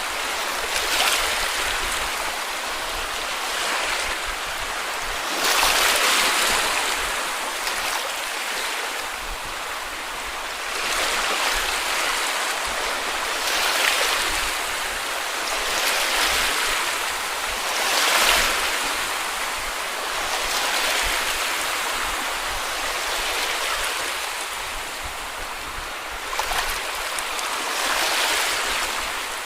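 Small sea waves breaking and washing up on a beach: a steady hiss of surf that swells with each wave, every few seconds.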